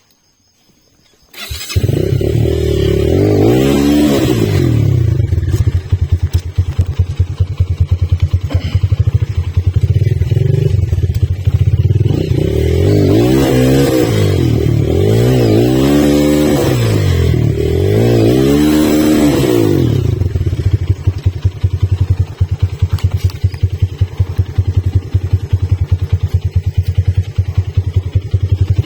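Rusi motorcycle engine cutting in suddenly about a second and a half in, then running loudly and steadily, its sound swelling up and down in pitch several times.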